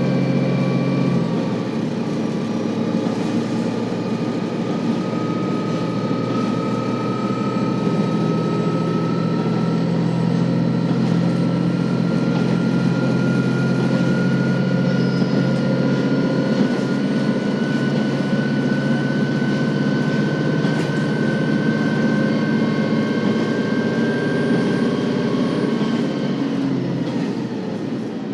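KiHa 40 series diesel railcar running under power, its diesel engine droning steadily with a thin whine that slowly rises in pitch as the car gains speed. Near the end the engine note drops away as the power is eased off.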